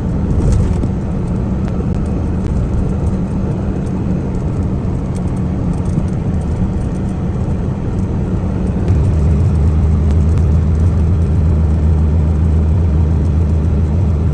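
Semi truck's diesel engine and road noise drone steadily inside the cab while driving. About nine seconds in, the engine note deepens and steadies.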